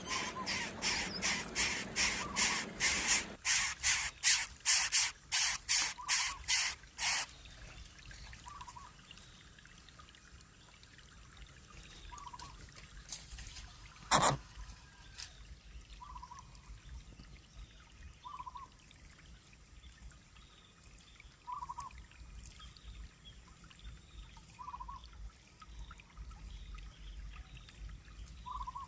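Young birds of prey giving harsh, rapid calls, about three a second, growing louder and stopping about seven seconds in. Afterwards only faint short cheeps every few seconds, with one sharp click about halfway.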